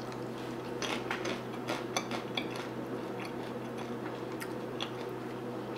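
Close-up chewing of a crispy fried wonton: scattered crunchy crackles, most of them in the first two or three seconds and a few more later, over a steady low hum.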